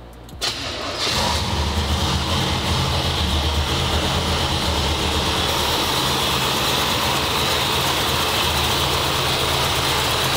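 A 1972 Corvette's carbureted V8 is started: it fires about half a second in, picks up within a second, and settles into steady idling, fed by a newly installed fuel system.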